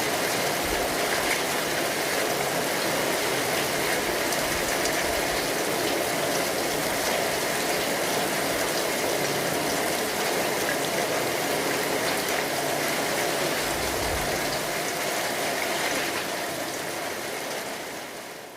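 Steady rain falling, an even patter and hiss, fading out over the last couple of seconds.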